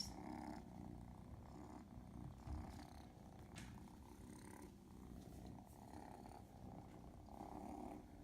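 Kitten purring close up, a steady low rumble that swells and eases every second or two.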